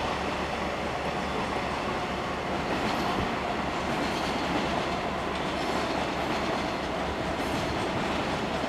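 A train running on the tracks, a steady, even running noise with no distinct knocks or horn.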